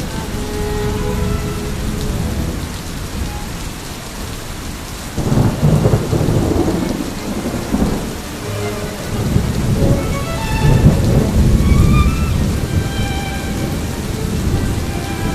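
Heavy rain falling steadily, with two long rolls of thunder, one about five seconds in and the next about ten seconds in.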